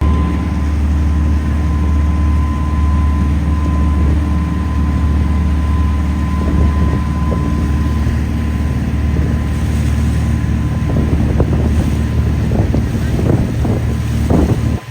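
Boat engine running steadily with a low drone and a faint whine, with wind buffeting the microphone.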